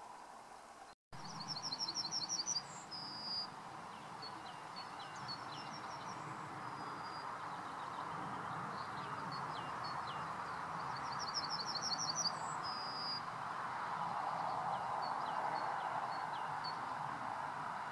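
A songbird sings the same fast trilled phrase twice, about ten seconds apart, each ending in a short flourish, with thin single call notes between, over a steady background hiss. The sound drops out completely for a moment about a second in.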